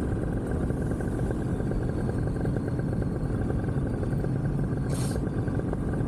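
Vittorazi Moster 185 single-cylinder two-stroke paramotor engine running steadily at idle during a landing approach. A brief hiss cuts in about five seconds in.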